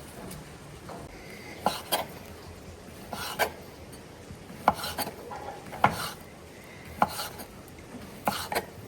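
Kitchen dishes and utensils clinking and knocking: about nine sharp, irregular strikes over a steady low hiss.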